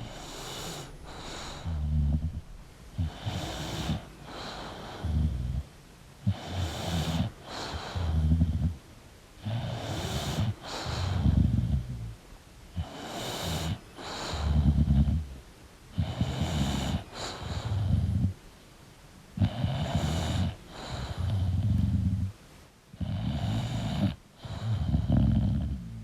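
English bulldog snoring in its sleep: regular snoring breaths about every one and a half seconds, each a low rumble with a higher hiss over it.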